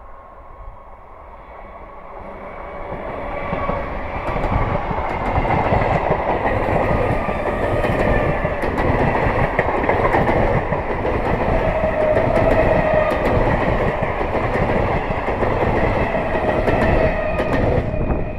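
Old electric multiple-unit (EMU) local train passing close by: the sound builds over the first few seconds into a loud, steady rumble of wheels on rail. Repeated clickety-clack of rail joints runs through it, with a high whine over the top.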